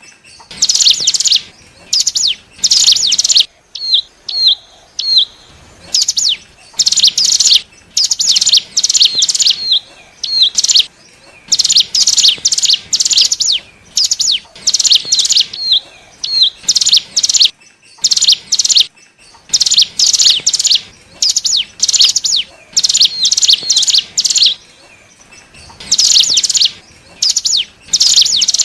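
Ciblek gunung (hill prinia) song played as a lure call: bursts of rapid, high, sharp notes, one after another about every second, with short pauses and a few single upslurred chirps between them.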